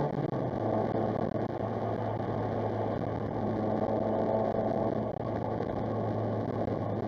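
Steady engine hum and road rumble inside a moving vehicle's cab at highway cruise, heard from a dashcam.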